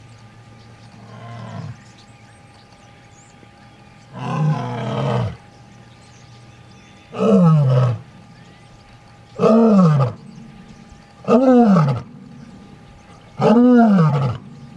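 A big cat roaring. A soft low call comes first, then a longer call about four seconds in, followed by four loud roars about two seconds apart, each rising and then falling in pitch.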